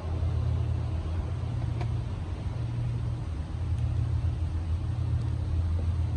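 Steady low rumble of a train running past in the distance.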